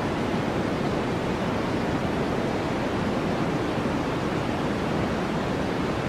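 Steady white-noise track: an even, unchanging hiss, heavier at the low end, with no pitch, rhythm or breaks.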